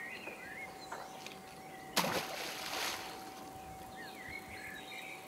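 A caged water-sampling bottle on a cable splashing in canal water: one sudden splash about two seconds in that fades over about a second. Small birds chirp and a faint steady hum runs underneath.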